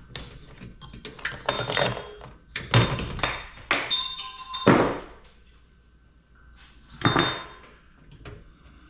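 Metal computer parts being handled and pulled apart: a run of knocks and clanks, some with a brief metallic ring, thickest in the first half and again once near the end.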